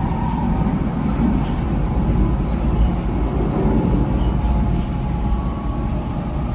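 700 Series Shinkansen bullet train running at speed: a steady low rumble with a faint whine and a few faint high clicks.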